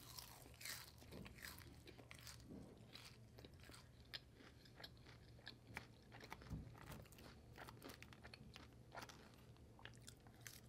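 Close-miked chewing of a mouthful of crispy fried onion strings: many small, irregular crunches and crackles, faint, over a low steady hum.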